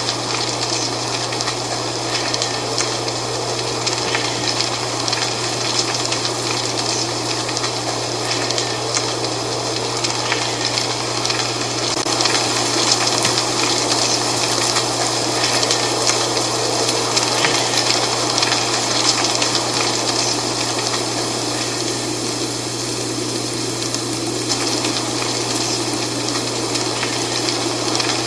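Dry autumn leaves rustling and crackling in steady wind, swelling a little in the middle, over a steady low hum.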